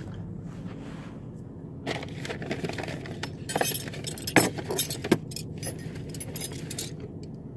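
Metal wrenches clinking and rattling against each other as they are handled, a run of short clinks over a steady low hum.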